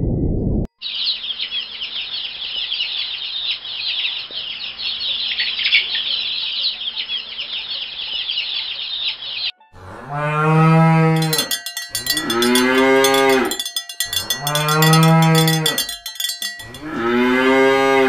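A cow mooing four times, each moo a long, low call that rises and then falls in pitch. Before the moos, a dense chorus of high chirps runs for about nine seconds, opened by a brief low rumble that cuts off abruptly.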